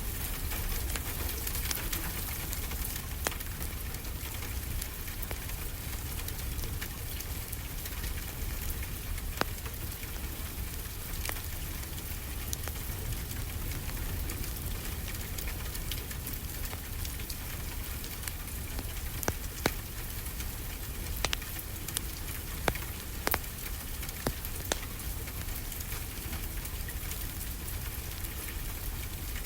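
Wood fire crackling, with scattered sharp pops that bunch together in the latter part, over a steady hiss and low rumble of ocean surf.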